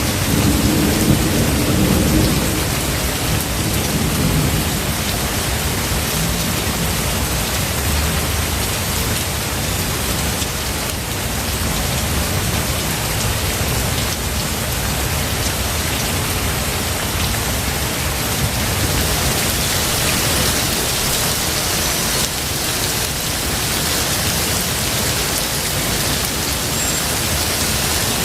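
Steady heavy rain falling, with a low roll of thunder rumbling in the first few seconds and then fading under the rain.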